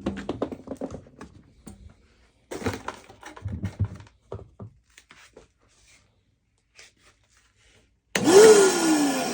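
Knocks and plastic clatter of parts being handled, then about eight seconds in the Vacmaster Beast wet/dry vacuum's motor starts with a loud whine. The whine rises sharply for a moment, then falls away steadily as the motor winds down.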